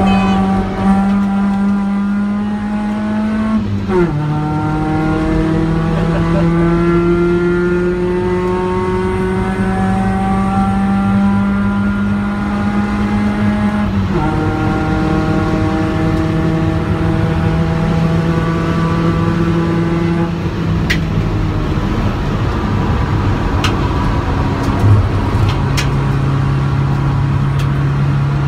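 Mk1 Ford Focus engine heard from inside the cabin on a track lap, the engine note climbing steadily under acceleration and dropping sharply at two upshifts, about four and fourteen seconds in. After about twenty seconds the driver eases off, and the engine settles to a lower, steady note, with a few light clicks.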